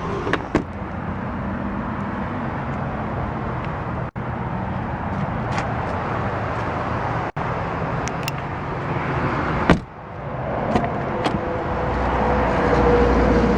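A car being handled: several sharp clicks and a louder thump about ten seconds in, over steady outdoor traffic noise. Near the end a low hum and a steady tone come in.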